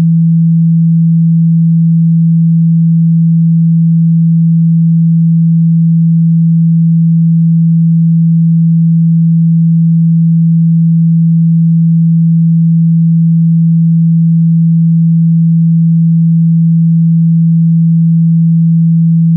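A steady, loud 165 Hz sine-wave test tone, unchanging, played to vibrate a phone speaker's membrane and shake out water and dust.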